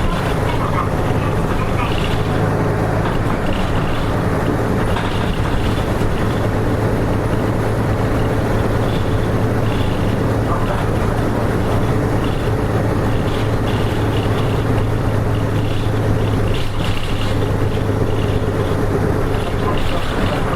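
Hino Rainbow RM (KK-RM252GSN) bus's diesel engine running steadily under way, heard from inside the cabin, with light rattling from the interior. About sixteen seconds in, the engine note dips briefly and then settles again.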